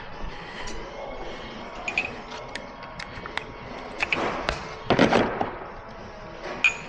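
Metal hand tools clicking and clinking in a series of sharp ticks, some with a short metallic ring, with a louder scraping, rummaging burst about four to five seconds in, typical of swapping a wrench or socket for the right size.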